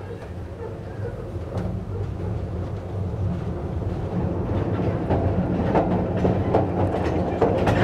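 Narrow-gauge train running, heard from an open carriage: a steady low rumble with wheels clicking over the rail joints, getting louder as it gathers speed.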